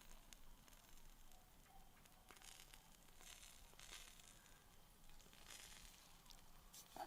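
Near silence, with a few faint, soft rustling sounds spaced a second or so apart.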